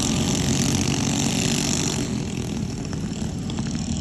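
Small single-cylinder minibike engines racing past in a pack, a steady buzzing drone that eases off slightly in the second half.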